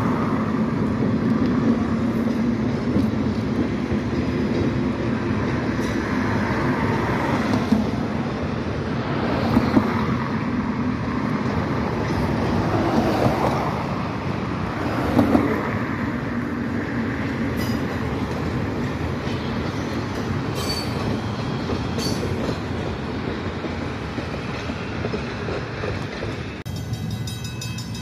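Train cars rolling across a steel truss bridge: a steady rumble of wheels on rail, with clacks and a few short high squeaks from the wheels. About a second before the end it cuts to much quieter street sound.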